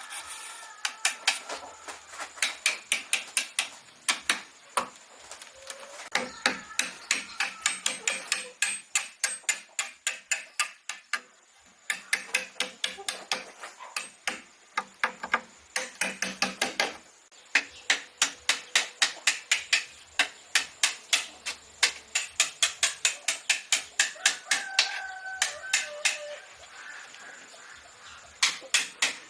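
Hammering on wood, in quick runs of sharp strikes, about four a second, with short pauses between runs.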